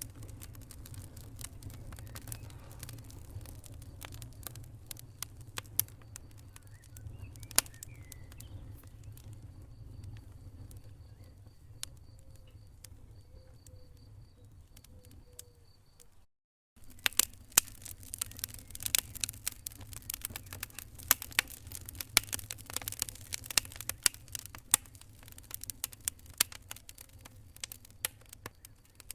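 Wood fire in a fireplace crackling and popping over a low steady rumble of flame. The sound cuts out briefly about halfway through, then comes back with denser, louder crackling.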